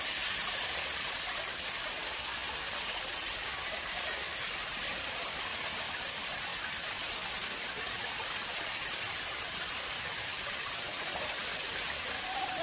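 Water flowing into an artificial pond: a steady, even rush of running water.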